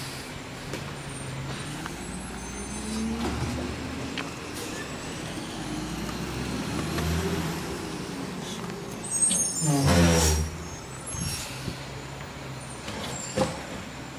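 Garbage truck's engine running, its pitch rising and falling. About ten seconds in comes a loud burst of noise, the loudest moment.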